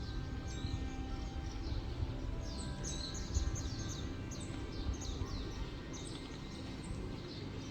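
Small birds chirping, a busy run of short, quick, downward-sliding notes, over a steady low background rumble.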